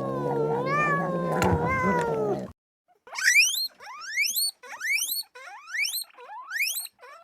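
A cat's long, drawn-out meow wavering in pitch, cutting off about two and a half seconds in. After a short gap comes a string of quick, sharply rising high squeals from another small animal, a bit under two a second.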